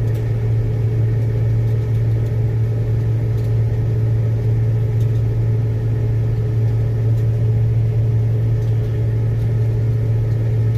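Engine running at a steady speed, a constant low drone that holds the same pitch throughout.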